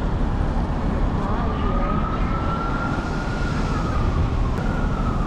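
Emergency vehicle siren wailing, one slow rise and fall in pitch, over a loud, steady low city-street rumble.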